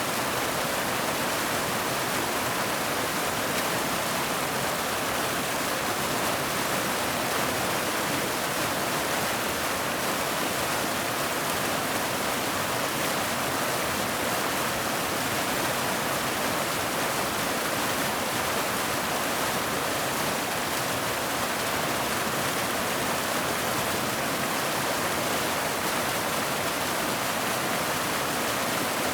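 Waterfall pouring steadily: an even, unbroken rush of water that is mostly hiss, with little low rumble.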